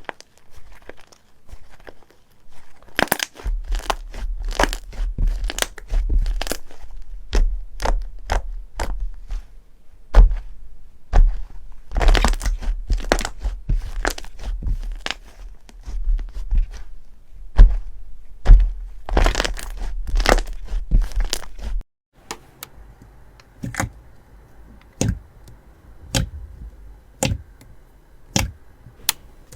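Crunchy slime being squeezed and pressed by hand, giving dense sharp crackles and pops over a low rumble. About two-thirds of the way through, the rumble stops and the crackles become sparser and softer.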